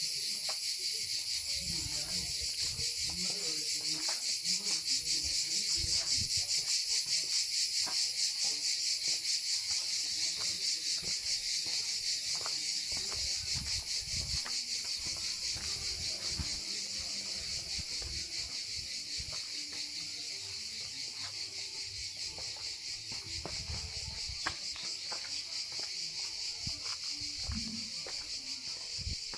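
Loud insect chorus: a dense, steady high buzzing with a fast pulse. Footsteps tread underneath at an even walking pace, about two a second.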